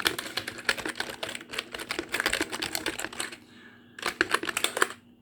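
Rapid, dense typing and tapping on a computer keyboard, many key clicks a second, pausing briefly a little after three seconds in, then resuming in a shorter flurry.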